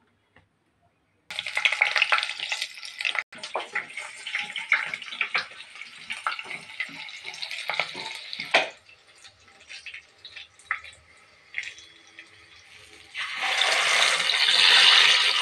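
Garlic cloves frying in hot oil in a non-stick kadai, sizzling and crackling with many pops from an abrupt start about a second in, then dying down to a low sizzle with scattered pops. Near the end beetroot purée poured into the hot oil sets off a louder, steady sizzle that spatters.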